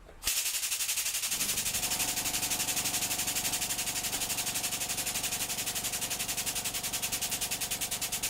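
A machine, likely the hydraulic press's pump motor, starts suddenly and runs with a loud hiss that pulses rapidly and evenly, about nine times a second. Steady tones join about a second in.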